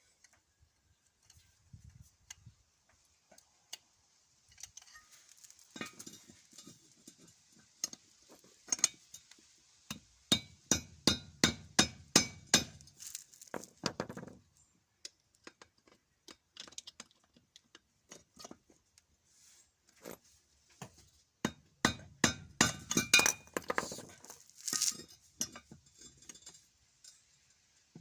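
Hammer tapping on small metal parts, sharp metallic clinks in runs of quick strikes, the busiest about ten seconds in and again a few seconds before the end.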